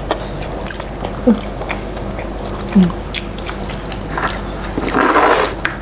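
Crispy fried chicken katsu being bitten and chewed close to the microphone, with many short crunchy clicks. Two brief falling voice sounds come about a second in and near the three-second mark, and a short breathy rush comes near the end.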